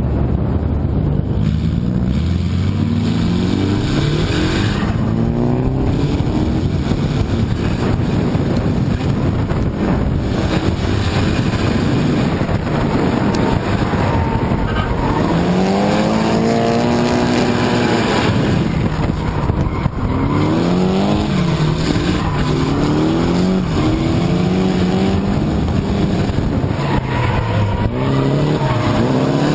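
Drift cars' engines revving hard, the pitch rising and falling over and over as the cars slide sideways, over a constant hiss of tyres sliding on asphalt.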